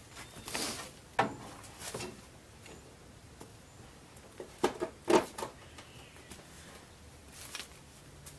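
A few scattered knocks and clunks at irregular intervals, the loudest cluster about halfway through, as of objects being handled and set down; no engine running or cranking.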